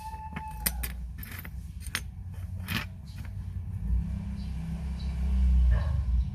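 Small metal tools clicking and tapping against watch movement parts, a few sharp ticks in the first three seconds. A steady low rumble runs underneath and swells near the end, where it is the loudest sound.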